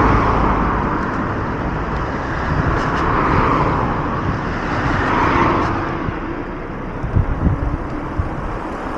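City road traffic: a steady wash of car noise with cars swelling past a few times.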